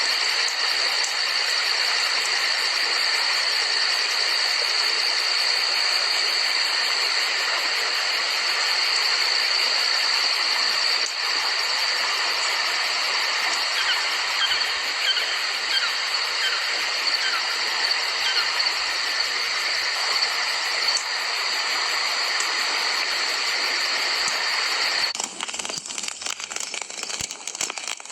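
Night forest ambience of steady rain hiss with a continuous high-pitched drone over it; the sound thins out and changes about 25 seconds in.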